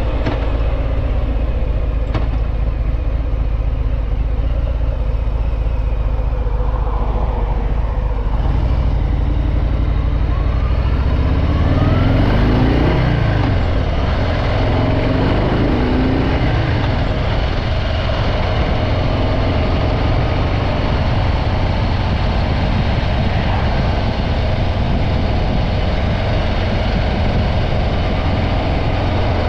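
Harley-Davidson Breakout 114's Milwaukee-Eight 114 V-twin on its stock exhaust, running under way. About a third of the way in it accelerates with rising pitch, drops back as it shifts, then runs steadily.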